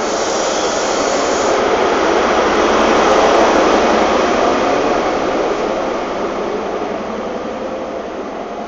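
Diesel High Speed Train (InterCity 125) pulling out past the platform: a steady rush of engine and wheel noise that builds to its loudest about three seconds in, then fades as the train draws away.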